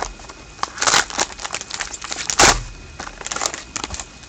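Plastic wrapper of a pack of hockey trading cards crinkling and tearing as the pack is opened, with irregular crackles and a louder burst about two and a half seconds in.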